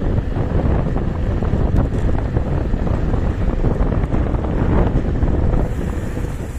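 Wind buffeting the microphone on a moving KuKirin G2 electric scooter, a dense low rumble that eases slightly near the end.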